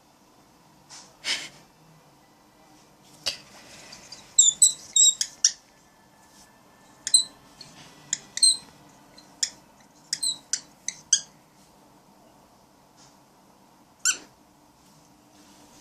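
Cockatiel giving short, sharp, high-pitched squeaky calls in quick clusters of several at a time, with a few short hissy bursts between them: the scolding of an agitated bird guarding its companion.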